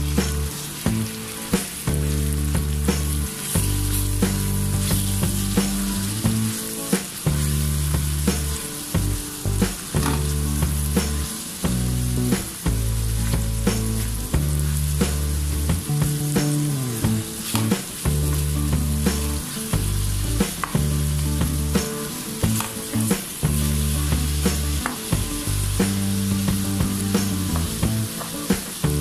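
Minced beef sizzling in hot oil with onion and garlic in a wok, stirred and broken up with a plastic spatula that scrapes and taps the pan many times. Low steady tones sit underneath, shifting every second or two.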